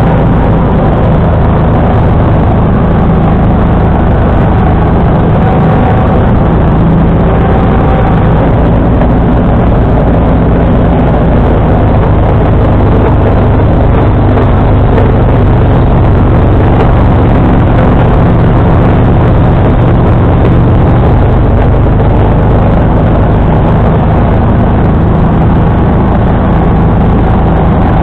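John Deere 445 garden tractor's V-twin engine running steadily and loud, driving a 47-inch snowblower.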